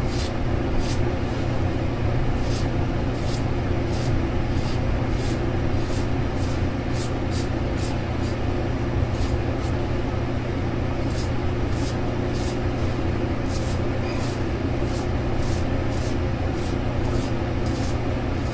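A brass double-edge safety razor scrapes through lathered stubble in short strokes, one or two a second in quick runs. An electric fan hums steadily underneath.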